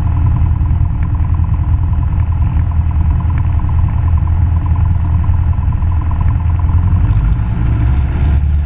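Cessna 172 Skyhawk's piston engine and propeller running loud and steady at high power, with a slight shift in pitch near the end.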